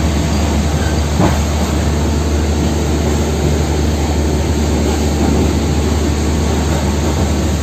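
Steady running noise inside a moving local passenger train carriage: a continuous low rumble with an even hiss over it, and a single knock a little over a second in.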